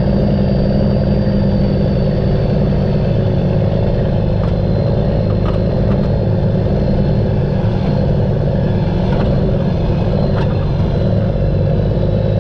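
Dump truck's Cummins N14 diesel engine running steadily under way, with a faint high whine over its drone.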